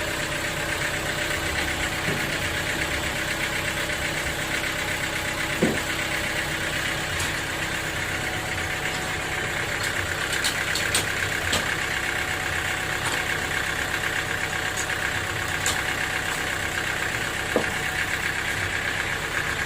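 Sawmill machinery running steadily, with a few light knocks now and then.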